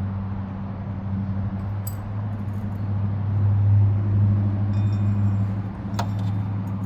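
A steady low mechanical hum that grows louder about three seconds in, with light metal clinks and one sharp clink of a hand tool against metal about six seconds in.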